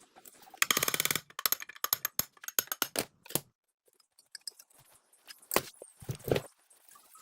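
Metal tools and parts clicking and knocking during workshop work, with a short burst of rapid, evenly spaced clicks like a ratchet about a second in, then scattered single taps.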